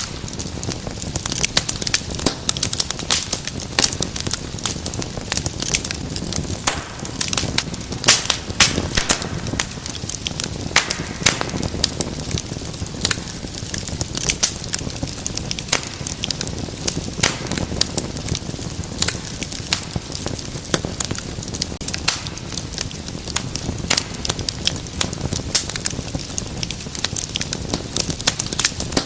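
Wood fire burning in a fireplace: a steady low rumble of flames with dense, irregular sharp crackles and pops throughout.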